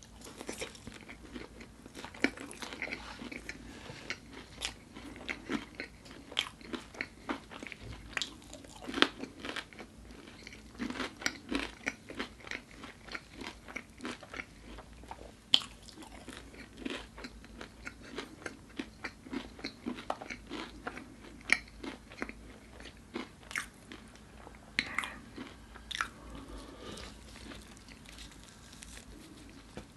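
Close-miked biting and chewing of crispy chili-coated bone-in chicken, with irregular sharp crunches and wet chewing in between.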